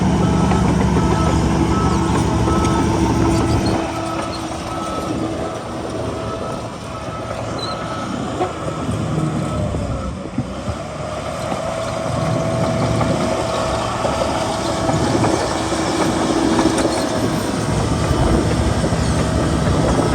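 Heavy diesel earthmoving machinery running under load, with a truck's reversing beeper pulsing for the first several seconds before it stops. The engine sound eases off in the middle and builds again later.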